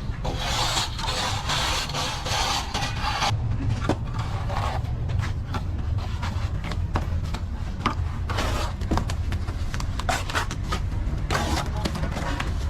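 Hand tools scraping and rubbing on a hard surface: one long scraping stroke near the start, then many short scuffs and taps, over a steady low rumble.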